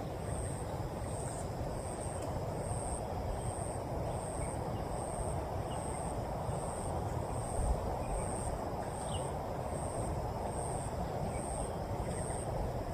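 An insect chirping in an even rhythm, a short high pulse about one and a half times a second, over a steady low rushing noise of rain.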